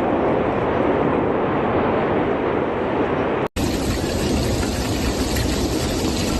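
Steady roar of a volcanic eruption, a dense rushing rumble with no distinct bangs, broken by a momentary dropout about three and a half seconds in.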